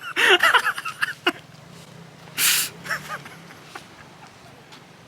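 A person's wavering, pitched cries in the first second or so, then short breathy gasps, over the steady low hum of a small motorbike engine.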